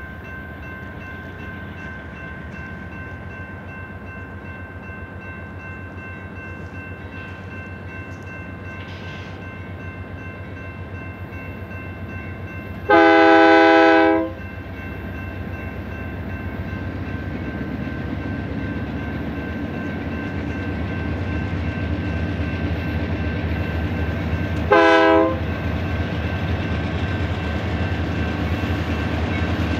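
Union Pacific freight train led by UP 5632 running up to a grade crossing, its steady rumble growing louder. The locomotive horn sounds one long chord blast about halfway through and a short blast near the end, blowing for the crossing.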